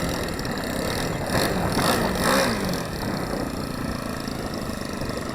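Cessna's piston engine and propeller running, with a louder swell about one to two and a half seconds in, over a steady rumble.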